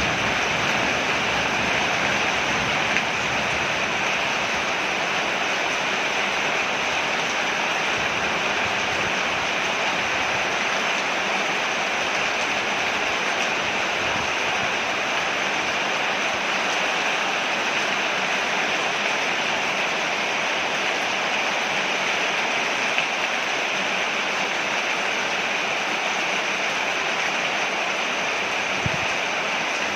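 Rain falling steadily on a porch, an even hiss of water with a few brief louder taps.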